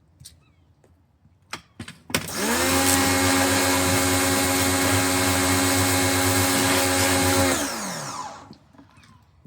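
Pro-Kleen 1600 electric pressure washer preceded by a few clicks: the motor and pump start up and quickly reach speed, run steadily with a deep hum for about five seconds, then wind down with falling pitch as it stops.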